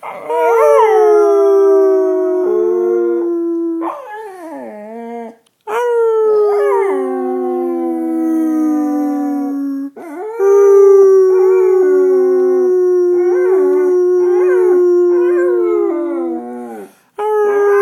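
A dog howling: four long drawn-out howls in a row with short breaks between them, each sliding down in pitch toward its end.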